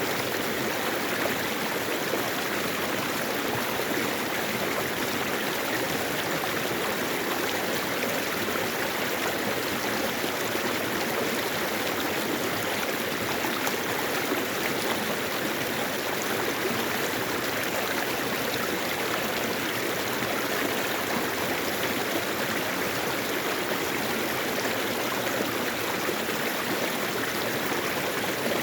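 Mountain valley stream flowing over rocks: a steady, even rush of water that does not change.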